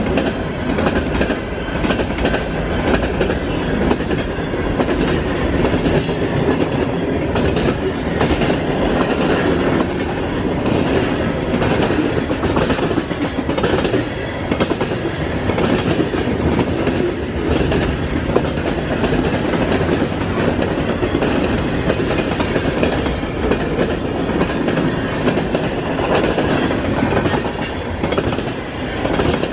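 Freight cars of a long CSX manifest train rolling past at speed, wheels clicking over rail joints over a steady rumble.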